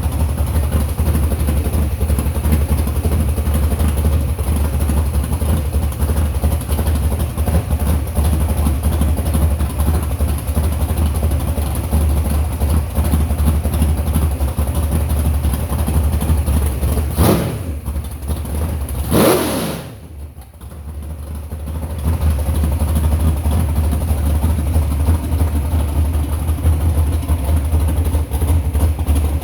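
Big-block 489 V8 with a swapped cam and a 4500 Dominator carburettor idling with a steady, loud rumble. It is blipped twice a little over halfway through, rising sharply each time, then drops back briefly before settling to idle again.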